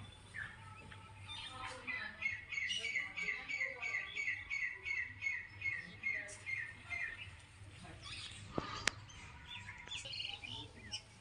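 A bird singing a rapid series of repeated short chirps, about three a second, for about five seconds, with a few more scattered chirps later. A single sharp click about nine seconds in.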